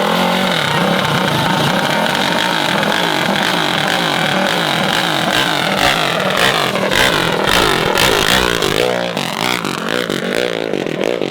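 Mini bike engines running hard and revving, their pitch sliding down and then climbing again about two-thirds of the way in as the throttle opens.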